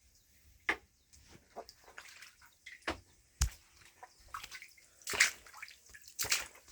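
Irregular splashes and sloshing in shallow standing floodwater, about four inches deep on a basement floor.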